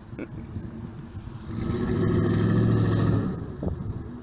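Chevrolet Tahoe V8 running through an aftermarket Corsa exhaust: it idles with a low rumble, is revved once about a second and a half in, holds the revs briefly, then drops back to idle.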